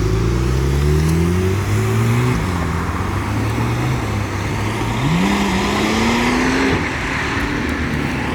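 A loud modified car accelerating hard. The engine note climbs through the gears, with a drop at a shift about two seconds in and another long climb from about five seconds.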